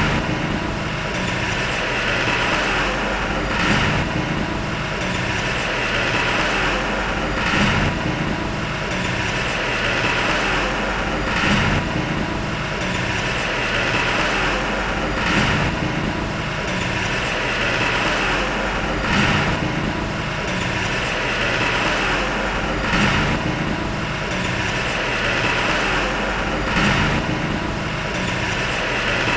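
Diesel engine of heavy earthmoving machinery running steadily, with a short surge that repeats about every four seconds.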